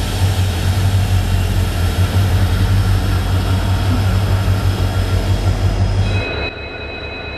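Diesel-hauled train running past, a steady low engine hum under loud rushing noise. About six seconds in it cuts suddenly to a quieter engine sound with an even low pulsing and a steady high whine.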